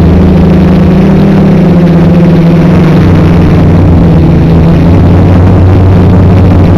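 Quadcopter's brushless motors and propellers droning steadily and loudly, with the pitch shifting as the throttle changes about three seconds in.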